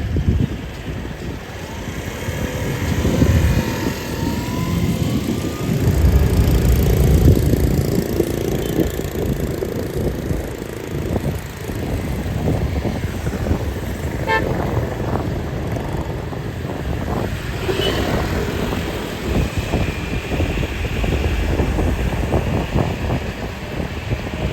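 Busy street traffic: motorbike engines passing close in swells, with a short horn toot just over halfway through.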